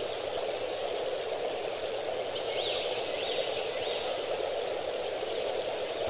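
Steady rushing of rain or running water, with a short run of high, quick chirps about two and a half seconds in.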